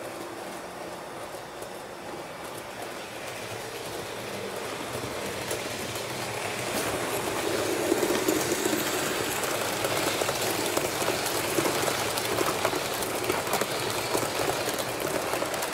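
A train running on rails, growing louder over the first half, then a dense, rapid clatter of wheel clicks.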